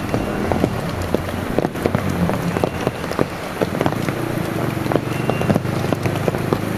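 Heavy rain falling steadily, with many close drops pattering and clicking sharply on a surface. A low steady hum sits underneath, stronger from about halfway.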